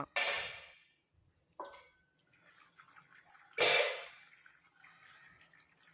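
Water splashing into a pan of curry masala, in two main pours at the start and about three and a half seconds in, each fading within a second, with a short splash in between.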